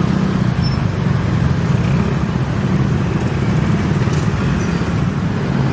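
A steady low engine rumble, even in level throughout.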